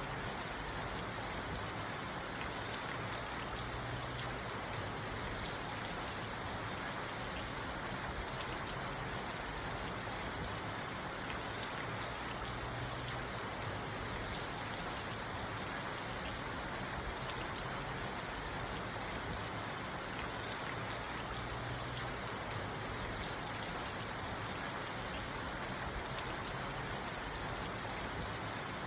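Steady rain pattering on a parked car, heard from inside the cabin.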